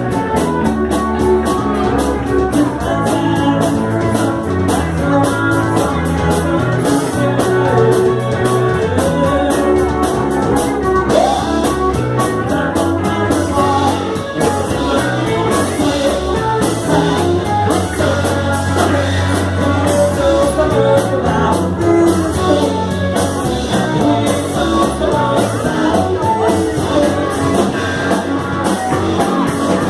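A rock band playing a rock-and-roll song with a lead singer.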